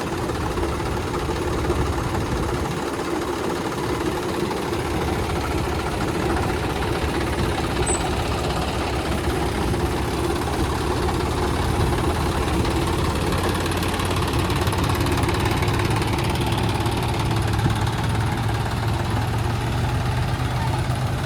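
Tractor engine running steadily, its low note rising slightly in the last few seconds as the engine speeds up a little.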